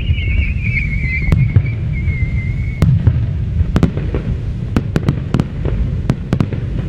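Fireworks display: a constant low rumble of bursting shells with many sharp cracks scattered through. A high, wavering whistle slowly falls in pitch and cuts off about three seconds in.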